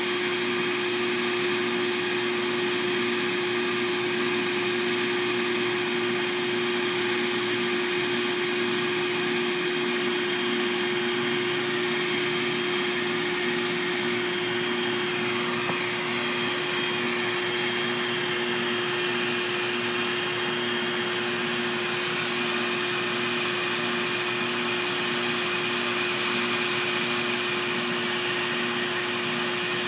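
Bee vacuum used to suck up a honeybee swarm, its motor running steadily with a constant hum and a faint, even pulsing beneath it.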